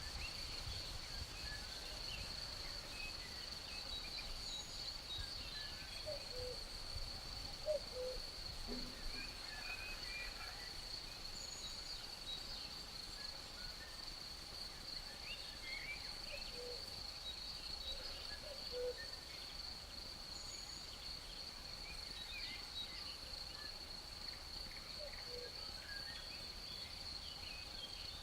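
A steady, high-pitched insect trill, typical of a cricket chorus, runs without a break. Scattered short bird chirps and a few brief low calls sound over it.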